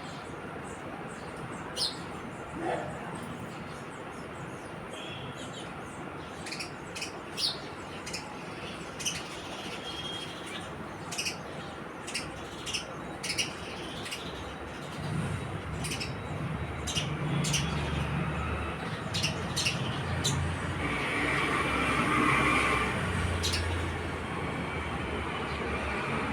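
House sparrows chirping: many short, sharp chirps, some in quick runs, most frequent in the middle. A low rumble, like passing traffic, comes in over the second half and grows louder near the end.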